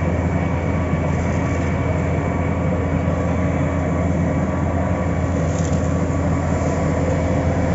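Heavy diesel engine of road-paving machinery running steadily at constant speed, a continuous low drone.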